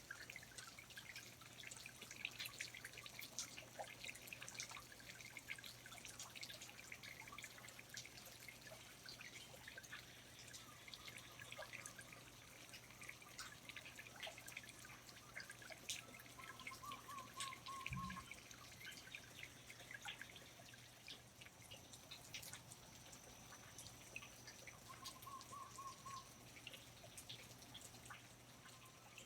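Water dripping in a rainforest: many small, irregular drips, faint throughout. Two brief warbling calls come through about 17 and 25 seconds in, and there is a soft low thump at about 18 seconds.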